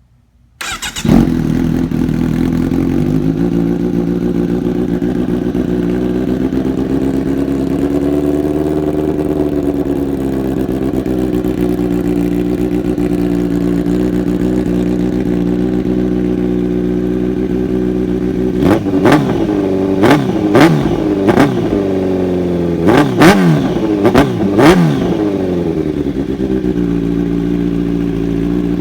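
A 2017 Kawasaki Z900's inline-four, breathing through Arrow headers and an SC Project S1 titanium slip-on with the dB killer baffle removed, is cold-started: it fires about a second in and settles into a steady cold idle. About two-thirds of the way through, a run of quick throttle blips revs it up and down, and then it drops back to idle.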